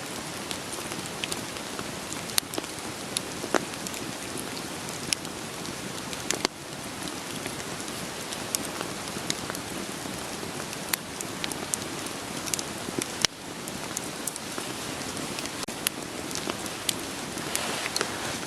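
Steady rain falling together with a wood fire crackling: sharp pops and snaps from the burning logs scattered through the hiss of the rain, about one or two a second.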